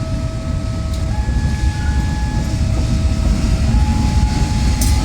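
Train passing close by with a loud, steady rumble. Over it a two-note tone alternates between a lower and a higher pitch, each held for a little over a second.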